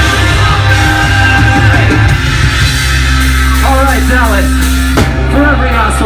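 Loud live rock band playing with drums and distorted guitars. About three seconds in, the dense playing gives way to a held low chord ringing out, and there is one sharp hit about five seconds in.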